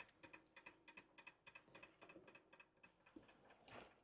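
Near silence with faint, rapid, regular ticking, about five ticks a second, that stops about three seconds in, followed by a short soft rustle.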